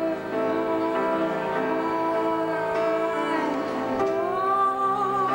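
Live band music with long held notes and a singing voice, recorded on a VHS-C camcorder.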